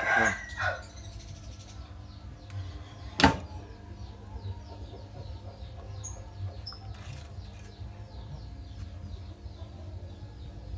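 Faint birds chirping over a low steady rumble, with a single sharp click about three seconds in.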